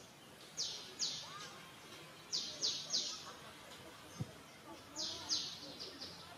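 A bird chirping repeatedly: short, sharp, high chirps that fall in pitch, coming singly or in quick runs of two or three, over a faint background murmur.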